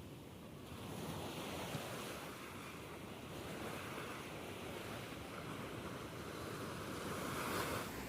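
Sea waves breaking and washing up on a sandy beach, rising and falling in slow swells, with wind buffeting the microphone.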